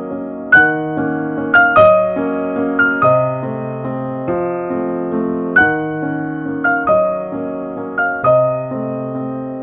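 Piano music: a slow melody of struck notes that ring out and fade, over held chords.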